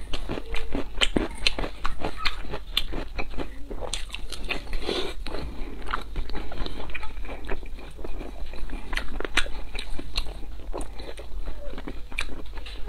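A person chewing soft braised pork belly, with dense, irregular wet clicks and smacks several times a second.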